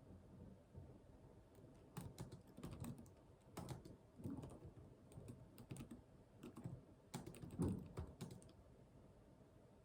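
Computer keyboard typing, faint: irregular runs of keystrokes from about two seconds in, thinning out near the end.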